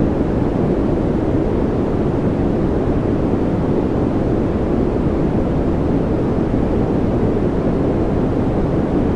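Steady, unchanging noise played as a white-noise sleep and focus track: a deep, even rush with most of its weight in the low end and little high hiss.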